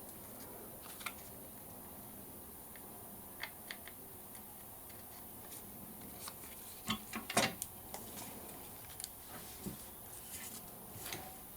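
Paper and craft supplies being handled on a tabletop: scattered light taps and rustles, with a quick run of louder clicks about seven seconds in.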